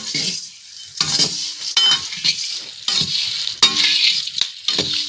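Food being stirred in a hot pan: a utensil scrapes the pan in repeated strokes, about two a second, over a sizzle.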